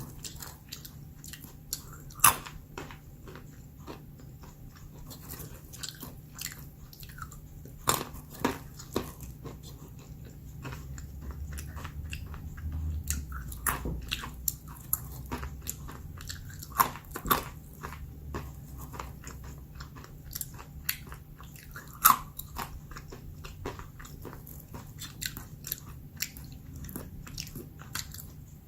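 Close-up crunching and chewing of roasted almonds: irregular sharp cracks as the nuts are bitten, between quieter chewing.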